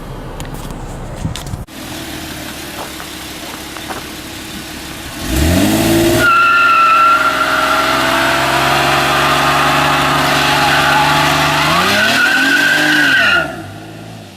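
A 2011 Chevrolet Camaro doing a burnout: the engine runs steadily, then revs sharply about five seconds in and its tyres squeal loudly and steadily for about eight seconds. Near the end the revs drop and the squeal stops.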